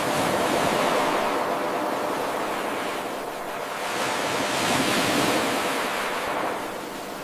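Ocean surf: waves washing in, swelling and easing twice in a steady hiss.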